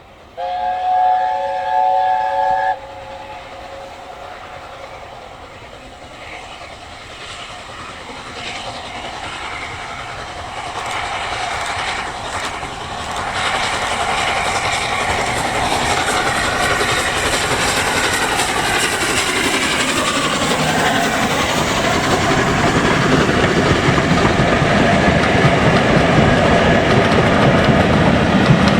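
A train's chime whistle gives one short, loud blast of about two seconds, sounding several notes together. Then the train approaches, its running noise growing steadily louder, with wheels clacking over the rail joints.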